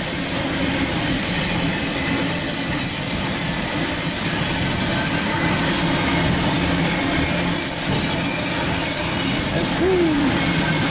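Cars of a loaded autorack freight train rolling past on the track: a steady noise of steel wheels on rail. A brief falling tone comes near the end.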